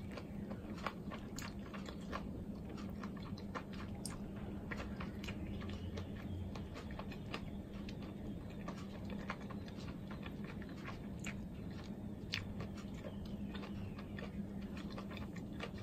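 A person chewing mouthfuls of bibimbap with lettuce, close-up: many small wet clicks and soft crunches, over a steady low hum.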